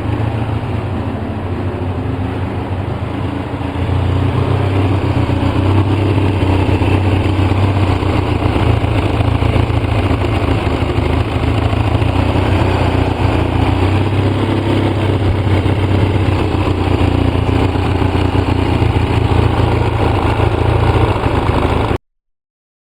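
A 2004 Polaris Sportsman 700 twin-cylinder ATV engine running at a rough idle on part choke, its fuel dosed with Seafoam to clean out the rough running. It gets louder about four seconds in.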